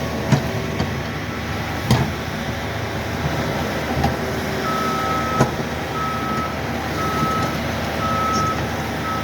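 Snow-clearing machinery running, with a steady engine drone and a few sharp clanks, the loudest about two seconds in. About halfway through a reversing alarm starts, one beep about every second: a machine backing up.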